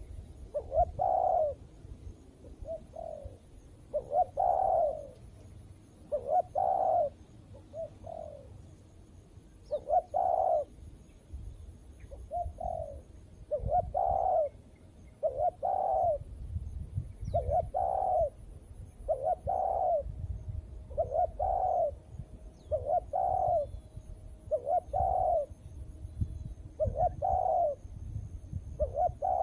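Spotted doves cooing: short coo phrases repeated about every one to two seconds.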